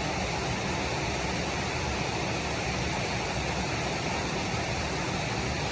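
Steady rushing of flowing water, an even hiss and rumble with no change.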